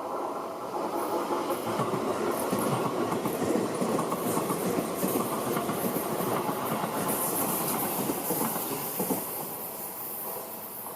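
A Seibu Ikebukuro Line electric train passing close by, its wheels clattering over the rails with a hiss. It builds in the first couple of seconds and fades near the end.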